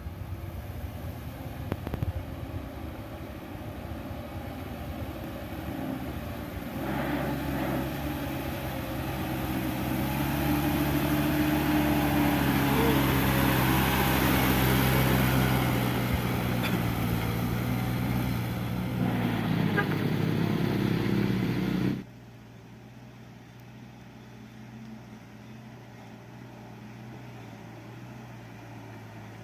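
Heavy sand truck's engine labouring up a steep incline: a low rumble that swells into a loud, steady engine drone about a quarter of the way in and peaks near the middle. About three-quarters through it cuts off suddenly to a quieter, steady engine hum.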